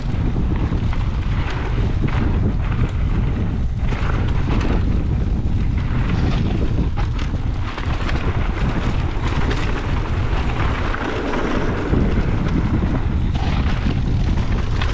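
Heavy wind buffeting on the microphone of a mountain biker riding fast down a dirt trail, with tyre rumble and many scattered knocks and rattles from the bike going over bumps.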